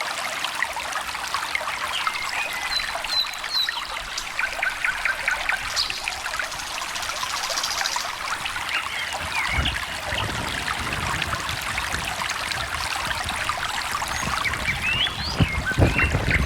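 A small stream trickling and splashing steadily, with songbirds chirping and trilling over it at intervals. Two brief low rumbles come about ten seconds in and near the end.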